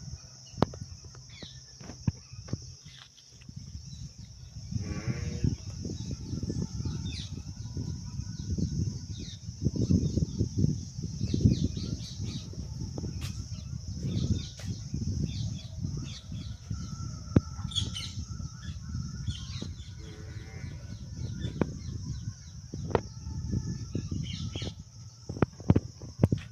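Outdoor ambience: a steady high-pitched drone under low rumbling noise, with scattered sharp clicks and a few short chirps.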